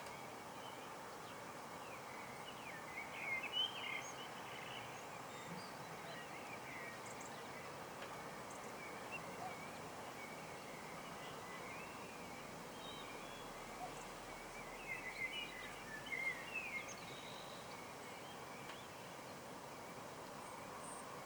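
Small birds chirping and singing over steady outdoor background noise, with two busier spells of calls, one about three seconds in and one around fifteen seconds.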